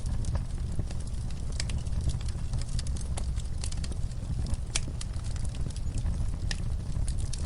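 Wood fire burning in a fireplace: a steady low rumble of the flames with irregular crackles and pops, one sharper pop a little under five seconds in.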